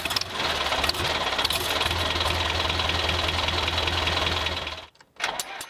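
Tractor engine running steadily with an even knocking beat, cutting off abruptly near the end.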